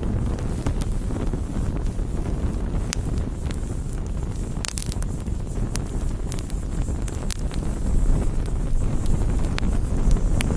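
Wood campfire crackling, with scattered sharp pops over a steady low rumble, and a brief flurry of pops about halfway through.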